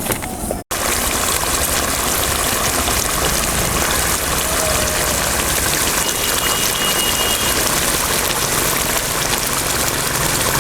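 Steady, dense sizzling and bubbling of chicken pieces cooking in a thick, spicy masala gravy in the pan.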